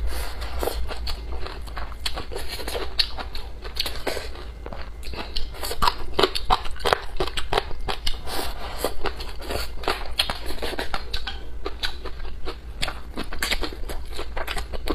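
Chewing and biting into braised sausage and pork, a steady run of irregular mouth clicks and crackles; near the end she bites into a green vegetable.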